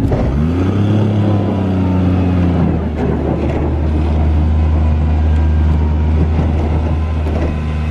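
Kawasaki Mule utility vehicle engine revving up and pulling hard under load while towing a heavy coop up an icy incline in four-wheel drive. The revs rise within the first second, drop briefly about three seconds in, then hold steady.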